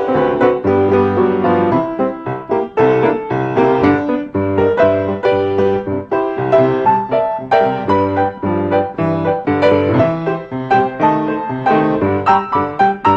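Piano music: a brisk tune of quick, closely spaced notes over a steady bass line.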